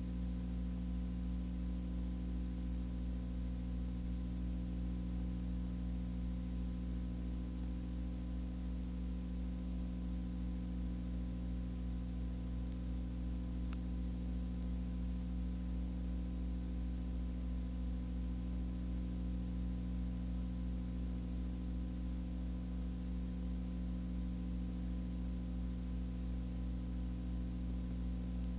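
Steady low hum with a constant hiss, unchanging throughout, with one faint tick about halfway through.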